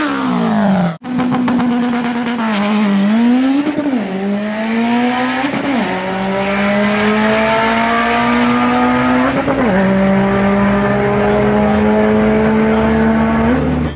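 Subaru Impreza WRX turbocharged flat-four at full throttle down a drag strip. Its note climbs steadily in each gear and drops sharply at each upshift, about four, five and a half, and nine and a half seconds in. Just before the run, a short falling engine note breaks off about a second in.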